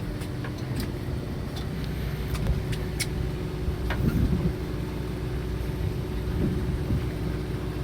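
Steady low drone of the fishing boat's engine, with a few faint clicks.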